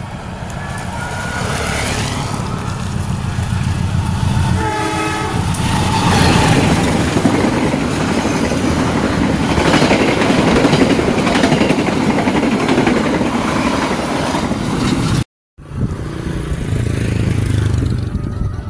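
Long-distance passenger train passing close by. A horn sounds for about a second around five seconds in, followed by loud, steady wheel-and-rail running noise. The sound drops out for a moment near the end, then train noise resumes.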